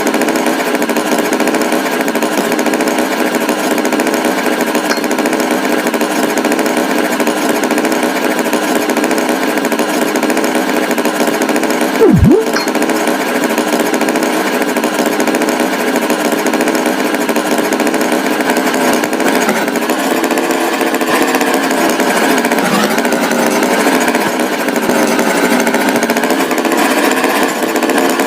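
Tractor engine sound effect running steadily with a buzzing drone. About twelve seconds in, a short, loud tone sweeps steeply downward.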